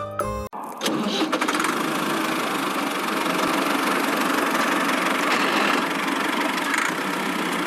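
Small motor of a home-built miniature construction machine running steadily, a dense buzzing hum that begins right after a short snatch of music cuts off.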